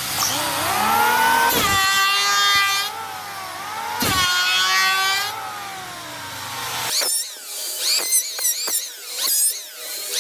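Electric power tool motor spinning up and running at a high, steady whine, broken by a couple of abrupt cuts. From about seven seconds in it gives way to a quick series of short high-pitched whines that fall in pitch.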